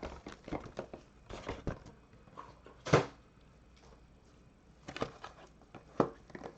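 Light handling noises on a tabletop: scattered taps and clicks, with one louder thump about three seconds in and a few more taps near the end.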